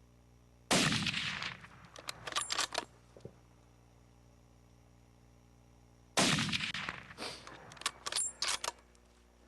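Two rifle shots about five and a half seconds apart, each followed by a rolling echo and a few sharp clicks. The first shot is a clean miss; the second hits the whitetail buck.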